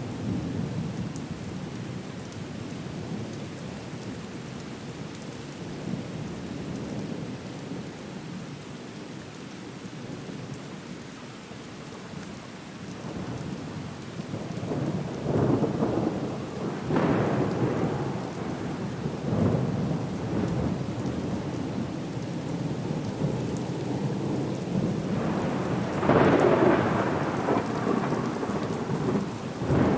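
Storm soundscape: steady rain with rumbling thunder. It builds about halfway through into louder swells, the loudest near the end.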